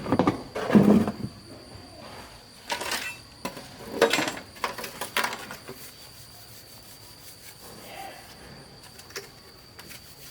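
Intermittent scraping, rubbing and knocking of objects being handled, loudest in the first second and again around four seconds in, then quieter, over a faint steady high-pitched whine.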